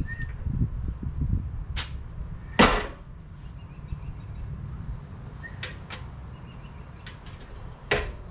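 Hands-on work with metal parts: a few low thuds, then sharp clicks and knocks scattered through, and one short louder noisy burst a few seconds in, over a low steady hum.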